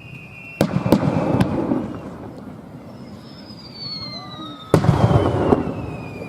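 Aerial fireworks shells bursting: three sharp bangs in quick succession in the first second and a half, and another about three quarters of the way through, each followed by a rumbling echo. Long, high whistles slowly falling in pitch run before the first bangs and again in the second half.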